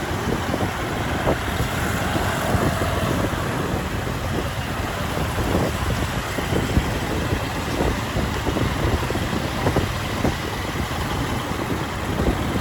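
Motorcycle running through city traffic: a steady engine and road rumble mixed with the noise of surrounding vehicles.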